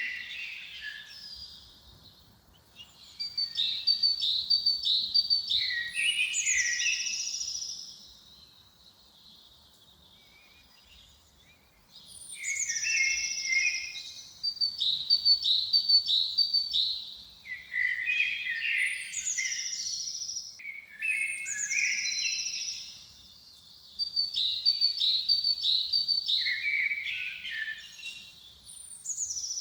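A songbird singing the same short phrase over and over. Each phrase is a run of quick high notes that falls to a lower flourish at the end, with a pause of a few seconds about a third of the way in.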